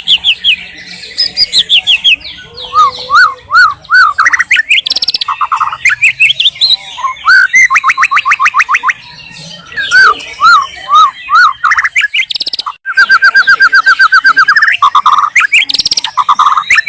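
White-rumped shama singing a loud, varied song: runs of arching whistled notes, fast rattling trills and rapid repeated chips, with a brief break a little before the end.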